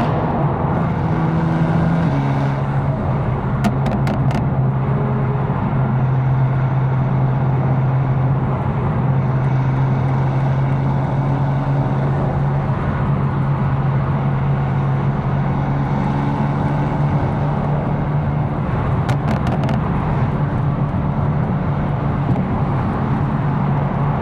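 A tuned BMW M4's twin-turbo straight-six running steadily at cruise while driving, its drone dropping in pitch about two seconds in as the revs fall. There are a few short sharp clicks around four seconds in and again near nineteen seconds.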